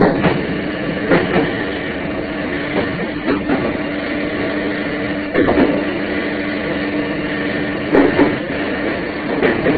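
Meitetsu Panorama Car electric train running at speed, heard from inside the car: a steady running hum with pairs of wheel clacks over rail joints about every two seconds.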